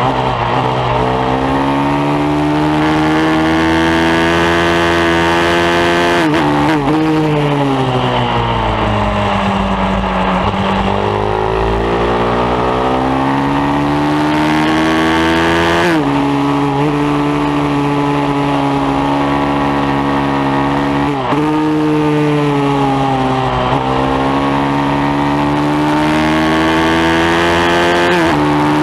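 Pit bike's single-cylinder engine at full throttle. The pitch climbs and drops sharply several times as it shifts up through the gears. Once, about six seconds in, the pitch falls for several seconds as the bike slows, then climbs again.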